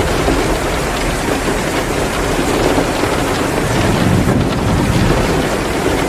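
Heavy rain pouring steadily, mixed with the faint crackle of a wood fire in a fireplace. A low rumble swells briefly about four seconds in.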